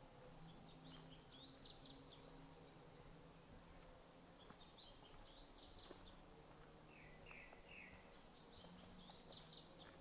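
A songbird singing faint, quick twittering phrases, three times about four seconds apart, with a lower three-note call between the second and third, over a faint steady background hum.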